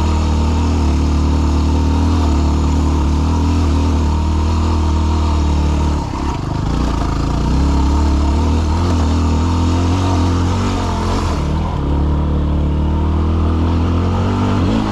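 Yamaha WR250R's single-cylinder four-stroke engine running under load as the dual-sport bike climbs over rocks. The engine note dips briefly about six seconds in, then picks back up.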